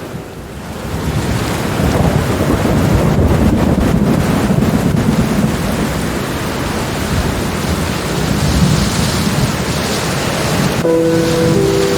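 Steady heavy rain with a low rolling thunder rumble that swells from about a second in and holds. Near the end, soft sustained music notes come in over the rain.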